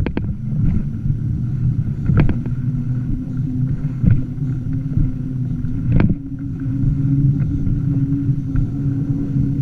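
A vehicle's engine running steadily while riding, a low drone that holds its pitch, with a few sharp knocks about two and six seconds in.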